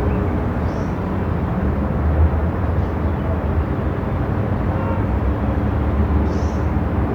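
Moving car: a steady low road-and-engine rumble with a hum, unchanging throughout. Two faint, short, high chirps sound about a second in and again near the end.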